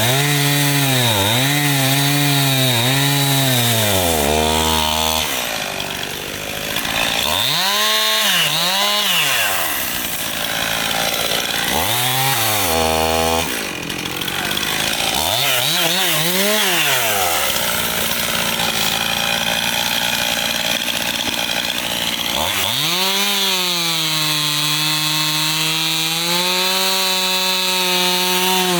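Two-stroke chainsaw cutting firewood, its engine pitch dropping and climbing back again and again as the chain bites into the wood, then running at fairly steady high revs near the end.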